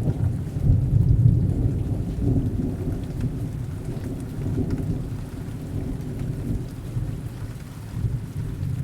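Rain falling with a low, rolling rumble of distant thunder. The rumble is strongest in the first couple of seconds and then slowly eases off under the steady rain.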